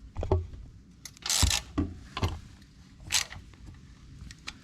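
Metal parts being handled on a small engine: a few light clicks and knocks, with two short scrapes, the first about a second in and the second near three seconds.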